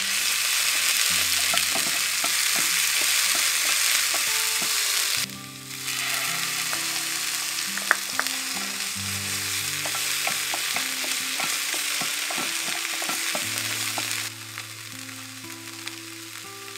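Hot oil sizzling in a small rectangular non-stick pan as a tempering with spinach purée fries, with scattered clicks of a spatula or ingredients going in. The sizzle dips briefly about five seconds in, and from about fourteen seconds in it is quieter.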